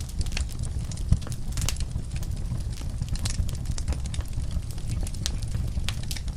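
Wood fire burning in a fireplace: irregular crackles and snaps over a steady low rumble of the flames, with one louder, deeper pop about a second in.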